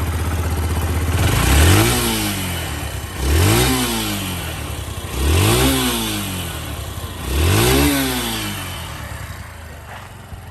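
Yamaha YBR125's air-cooled four-stroke single-cylinder engine idling, then revved four times, each blip rising and falling back, about two seconds apart, before settling back to idle. The seller describes the engine as in good running order.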